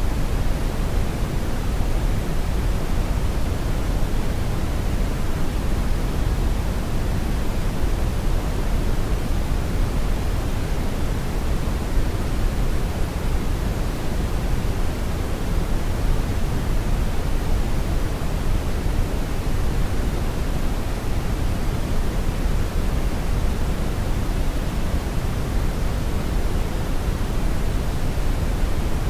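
Brown noise: a steady, deep rumbling hiss, strongest in the bass and fading toward the highs, unchanging throughout.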